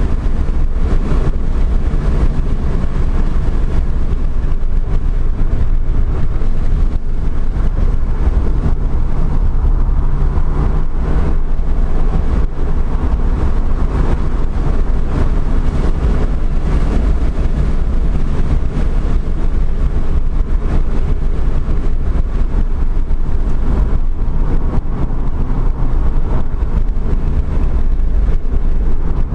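Engine of a 2013 Subaru WRX, a turbocharged 2.5-litre flat-four, running hard at speed on a track lap, heard from inside the cabin with loud road and wind noise. The engine note rises and falls with the revs over a steady low rumble.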